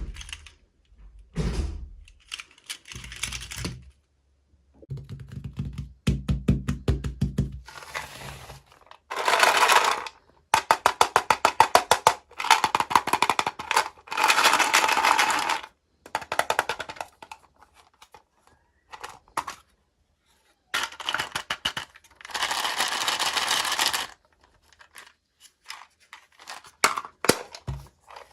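Toy packaging being opened by hand: a string of taps and clicks, with plastic and cardboard rustling, scraping and tearing. The longest stretches of rustling fall in the middle and again about three quarters of the way in.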